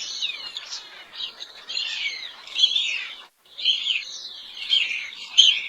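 Songbirds singing: a dense run of high, quick chirps and trills, which cuts out for a moment a little past halfway and then resumes.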